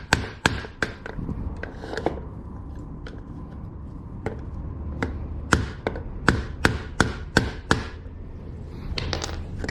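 A hard plastic hammer striking a 17 mm socket to drive a rubber grease dust seal onto a wiper linkage ball joint. Sharp, repeated blows come unevenly at first, then as a quick run of about seven between five and eight seconds in. The seal is stubborn and resists going on.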